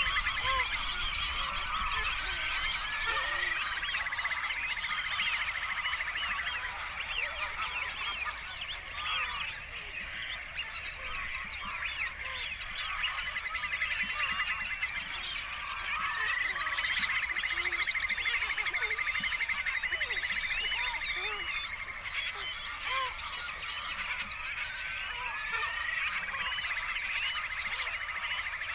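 Many birds calling at once in a dense, overlapping chorus of short calls. A longer buzzy trill rises out of it about three times: around three seconds in, in the middle, and near the end.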